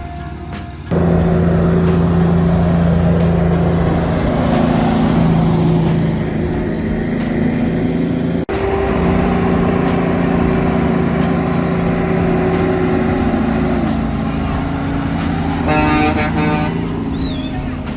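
Heavy truck on the road, its engine running loud and steady with held droning tones. A short horn blast, about a second long, comes near the end.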